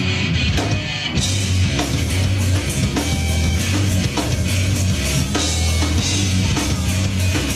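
Rap-rock band playing an instrumental passage live: a drum kit keeping a steady beat over a heavy bass line.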